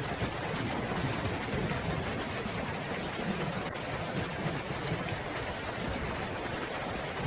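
Steady rain falling, an even wash of noise.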